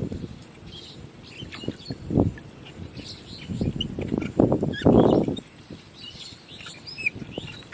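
Small birds chirping in short high calls throughout, under a few louder rough noises of unclear source, the longest and loudest about four to five seconds in.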